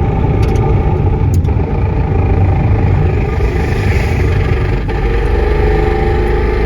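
Loud, steady drone of a junk Toyota Corolla heard from inside the cabin while driving at about 35 mph. Low road and tyre rumble runs under a steady whine from the drivetrain, whose transmission is failing.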